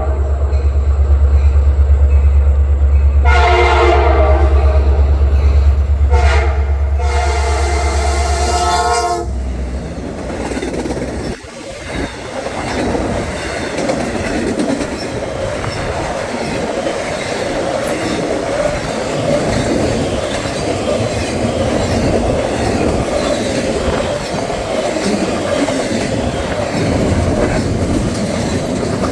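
EMD SD70MAC locomotive passing at speed, its Nathan K5LA five-chime horn, listed by the uploader as fouled, sounding crossing blasts (a long one, a short one, then a final long one ending about nine seconds in) over the locomotive's deep engine rumble. After the locomotive goes by, the intermodal cars roll past with steady wheel and rail clatter.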